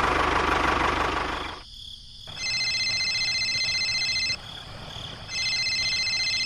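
A small engine running, cut off about a second and a half in. Then a high trill that pulses rapidly, in two stretches of about two seconds with a short gap between.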